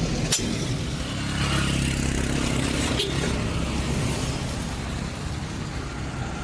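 A motor vehicle's engine running steadily with a low rumble, and a sharp click about three seconds in.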